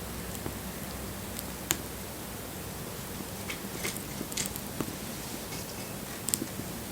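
Wood fire burning with a steady soft hiss and scattered sharp crackles and pops, the loudest about a second and a half in and a cluster of them around the middle.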